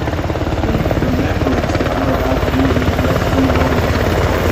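Military helicopters flying over, their rotor blades making a loud, steady, rapid chop that grows slightly louder toward the end.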